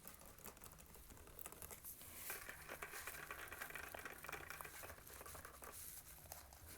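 Fast, close-miked ASMR trigger sounds: dense light tapping and clicking by fingers, with a crinkly scratching rustle that grows stronger about two seconds in and eases off a little after five seconds.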